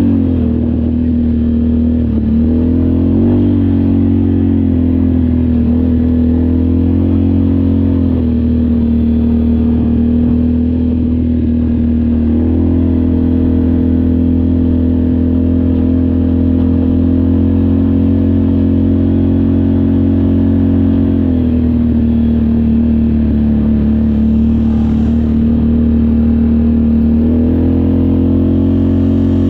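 ATV engine running steadily on the move, with a low rumble underneath; its pitch steps up and down a few times with the throttle.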